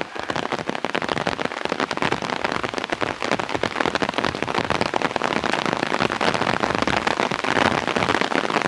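Rain pattering on an open umbrella held overhead: a dense, steady crackle of many small drop impacts.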